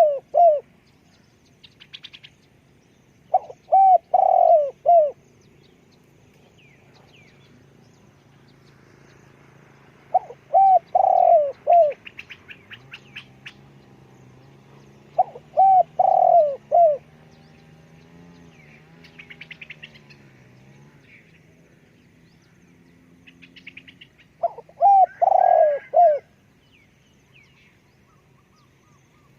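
Spotted dove cooing, four phrases of three or four deep notes each, several seconds apart, with small birds chirping faintly between them.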